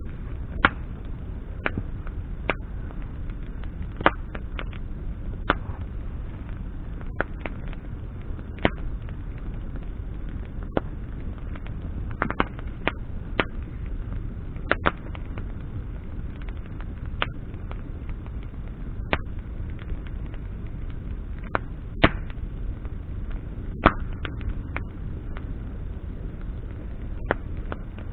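Wood campfire burning, its branches crackling with sharp, irregular pops every second or so over a low steady rumble. The loudest pops come about two-thirds and five-sixths of the way through.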